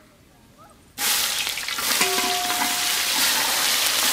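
Sliced onions frying in hot oil in a kadai, sizzling steadily and stirred with a spatula. The sizzle starts suddenly about a second in.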